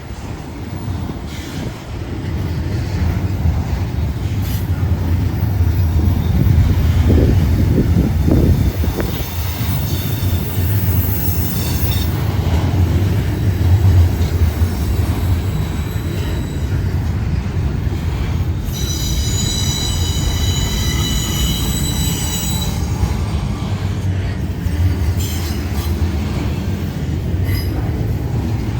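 A freight train rolling past with a steady low rumble of wheels on rail. Its wheels squeal in high steady tones about 19 to 23 seconds in, with a fainter squeal around 10 to 12 seconds in.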